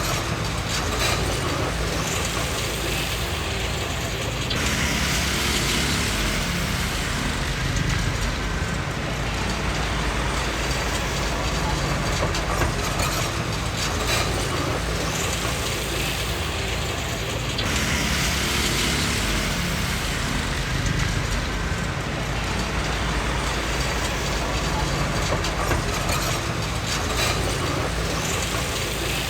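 Komatsu D20P crawler bulldozer's diesel engine running steadily under work, with the metallic clanking and squeaking of its steel tracks.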